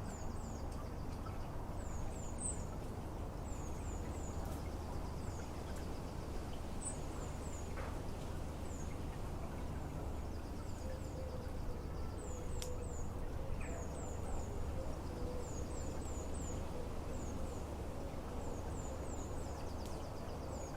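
Small garden songbird calls: short, thin, high-pitched falling notes repeated in quick clusters of two or three, over a steady low background rumble.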